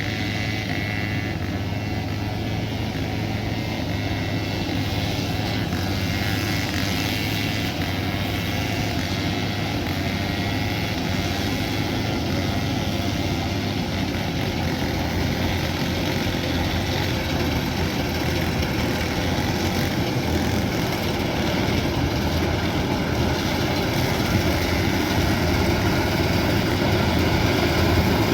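Kubota DC108X combine harvester running steadily while harvesting rice, its diesel engine and machinery making a continuous hum that grows slightly louder near the end.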